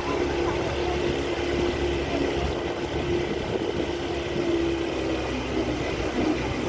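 A small boat's engine running steadily under way, a constant hum with a low rumble beneath it.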